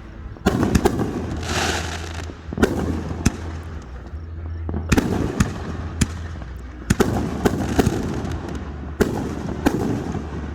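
Fireworks going off: sharp bangs every second or two, each trailing off in a noisy smear, over a steady low hum.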